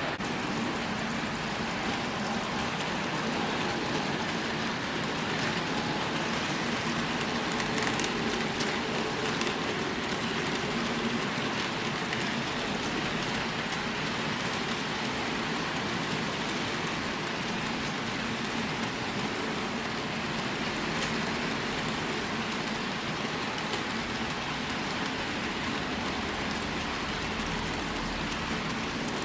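Wheels of a long HO-scale model freight train rolling over model track: a steady whirring clatter with scattered faint clicks.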